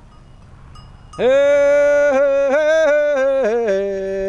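A voice singing a long held phrase that starts about a second in, stepping between a few notes and dropping lower near the end.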